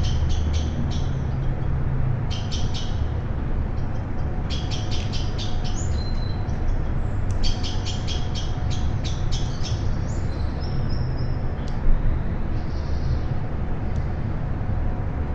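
Songbirds calling in several short runs of rapid, sharp notes, with a few brief whistled notes between, over a steady low rumble. A single sharp click sounds about twelve seconds in.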